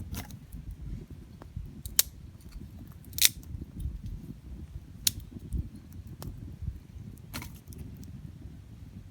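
Wood campfire crackling: scattered sharp pops from the burning firewood, four clear ones and the loudest about three seconds in, over a low steady rumble.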